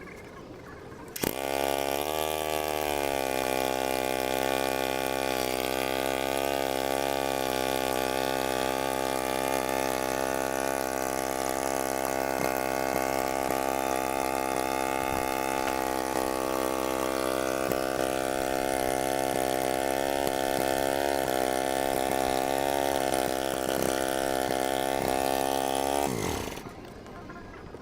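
The 16 hp Briggs & Stratton engine of a Gilson garden tractor starts about a second in, dips briefly, then runs steadily. It shuts off near the end, its pitch falling as it winds down.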